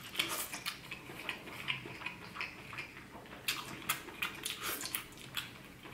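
A person chewing a mouthful of soft king crab meat coated in cheese sauce, with many short wet mouth clicks and lip smacks.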